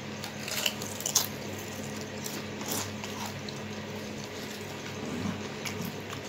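Potato chips being bitten and chewed: a few short, sharp crunches over a faint steady hum.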